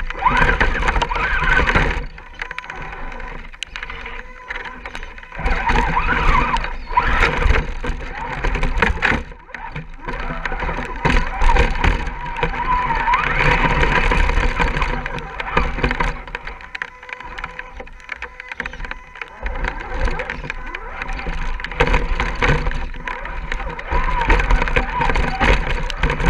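Electric RC scale crawlers driving, their motors and gears whining in a pitch that rises and falls with the throttle, over a steady low rumble.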